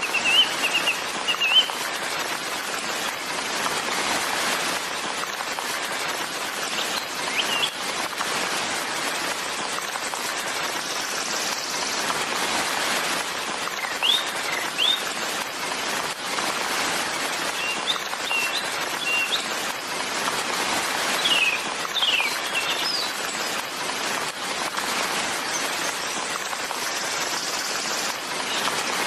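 Steady rain hissing, with small birds chirping now and then in short calls.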